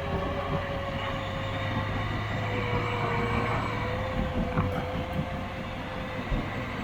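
Vehicle engine running steadily, holding a constant tone with a low hum beneath.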